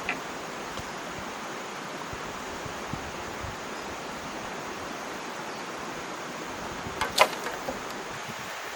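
Steady rushing outdoor noise, with a short clatter of sharp knocks about seven seconds in, one of them much louder than the rest.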